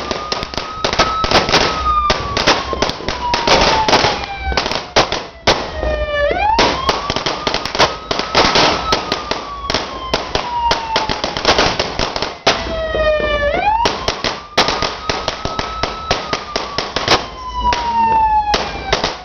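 Firecrackers and fireworks crackling and banging densely and without pause. A siren wails through them, rising quickly and then falling slowly about every six seconds, and clusters of short falling whistles come twice.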